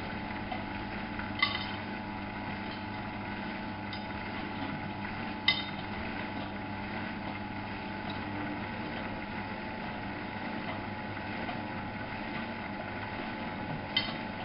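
Miele Novo Super W933 washing machine running: a steady motor hum that sets in at the start, with three short clinks, about a second and a half in, about a third of the way through (the loudest), and near the end.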